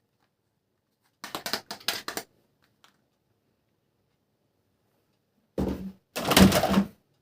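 Plastic toy guns being handled: two short spells of quick clicking and rattling, the second louder, about a second in and again near the end.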